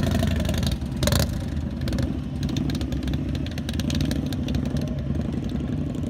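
Motorcycle engine running close by, with a brief loud surge about a second in, then running steadily.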